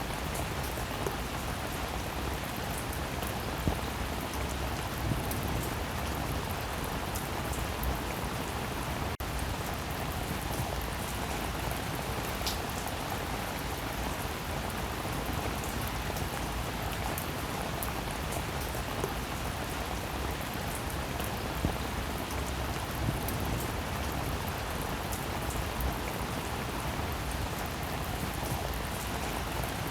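Rain falling steadily, a constant hiss with scattered drops ticking here and there.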